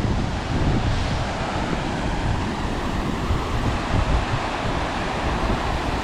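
Strong wind blowing across the microphone: a steady rushing noise over an uneven low rumble, which comes in suddenly at the start.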